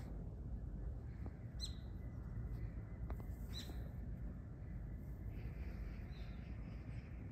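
Two short, high bird chirps about two seconds apart over a steady low outdoor rumble.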